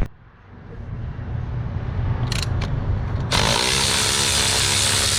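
A low steady hum, then a couple of light clicks, then about three seconds in a loud steady hiss of rushing air starts suddenly.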